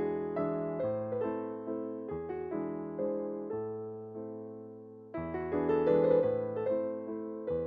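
Background piano music: gentle chords and melody notes struck and left to fade, growing louder about five seconds in.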